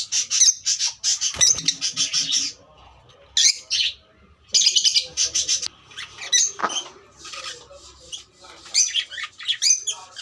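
African lovebirds chattering: shrill, rapid runs of chirps in bursts, with scattered single squawks between them.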